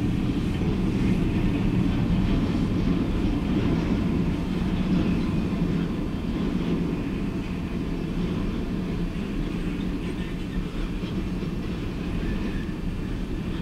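Piggyback freight train of highway trailers on flatcars rolling past, its wheels and cars giving a steady low rumble.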